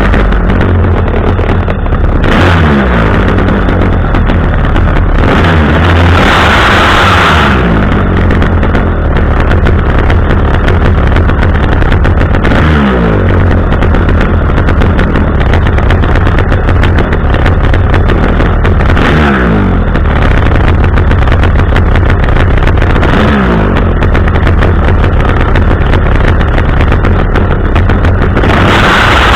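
Chainsaw on a pole extension running loud at high speed. Its engine pitch dips and recovers several times, every few seconds.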